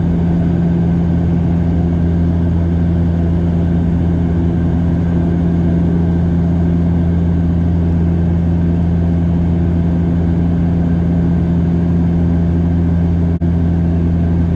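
Steady propeller and engine drone of a Bombardier DHC8-Q400 turboprop, heard from inside the passenger cabin in flight, with a constant low hum.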